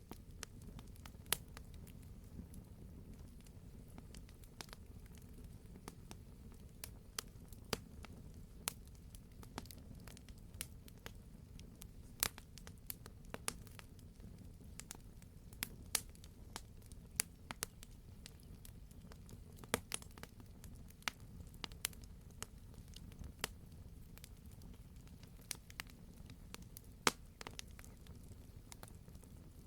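Wood fire burning with a steady low rumble and irregular sharp pops and crackles, several a second.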